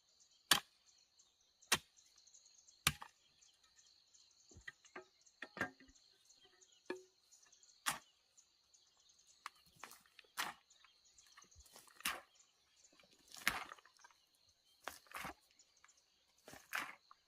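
Chopping at wood with a blade: sharp strokes about one every second early on, then irregular blows, some in quick pairs, with small cracks and clicks between them. A steady high hiss runs in the background.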